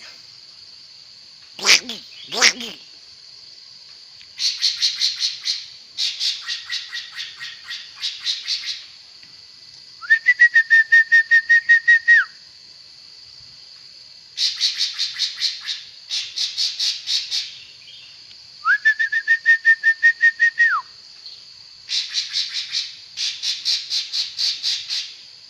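A songbird singing: two quick downward-sweeping calls about two seconds in, then six rapid trilled phrases separated by short pauses, two of which carry a steady whistled note under the trill. A faint steady high tone runs behind the song.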